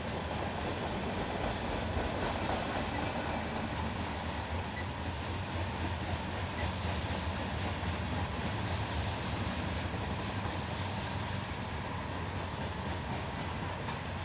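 Norfolk Southern freight train rolling by, a steady sound of cars running on the rails with no horn.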